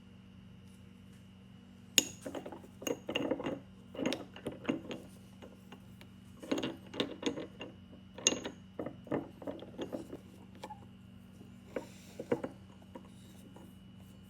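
Irregular metallic clicks and knocks of small metal parts and hand tools being handled during disassembly, starting about two seconds in and thinning out near the end.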